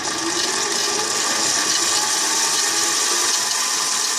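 7x16 mini lathe running with its spindle at about 1100 rpm, turning freely before the tool is brought into the stainless bar; a steady mechanical running sound that has just come up to speed.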